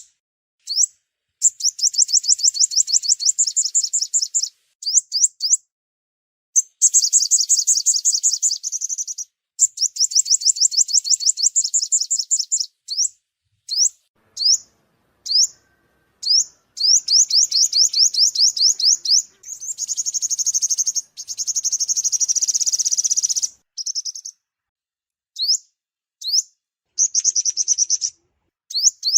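Sunbird song, used as a trapping lure call: rapid high trills of quick sweeping notes, each lasting a few seconds, with single sharp chips between them and a buzzier trill a little past the middle.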